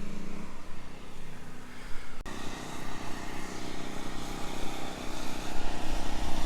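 A steady engine drone with an even hum over outdoor background noise. The sound breaks off abruptly about two seconds in and a steady drone picks up again at a slightly different pitch.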